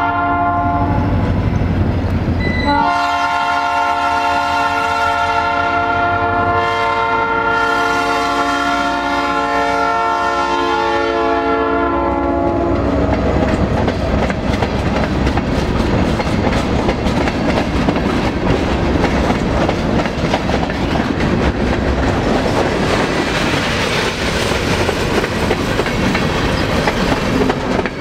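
EMD diesel locomotive's multi-note air horn sounding a long blast, broken briefly about three seconds in and ending about 13 seconds in, over the engine's low rumble as it passes close. After that, open-top freight cars roll by with the wheels clicking and rattling over the rail joints.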